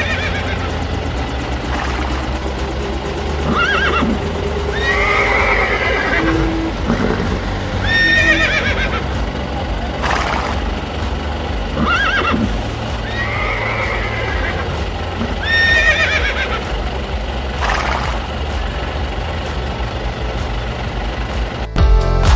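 A horse whinnying again and again, short calls about every two seconds, over a steady low hum. Electronic music cuts in just before the end.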